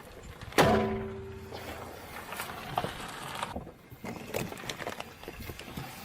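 A sudden knock about half a second in that rings with a short pitched tone as it dies away, followed by scattered small cracks and crackles, as an object gives way under a car tyre.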